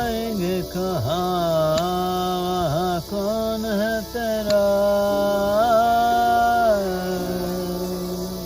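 Soundtrack music: a solo voice singing a slow, chant-like melody in an Indian style, with long held notes that slide and waver in pitch.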